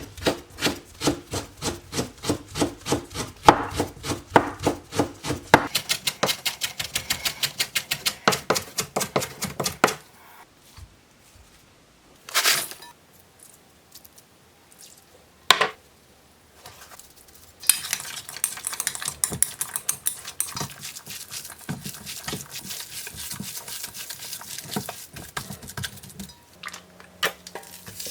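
A knife chopping on a wooden cutting board in regular strokes that quicken to about four a second, then a pause broken by two single knocks. Then a steady clatter and hiss of food being stirred in a pan.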